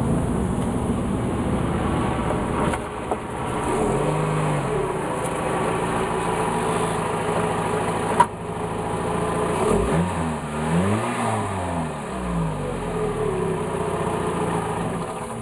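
2006 Dodge Stratus SXT's 2.4-litre DOHC inline-four running on its stock exhaust, with a short rise and fall in revs about 4 s in and a bigger rev that climbs and drops back between about 10 and 12 s. A sharp click is heard just after 8 s.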